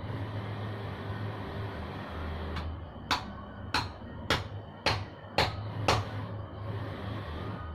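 Six sharp taps, evenly spaced about two a second, over a steady low hum.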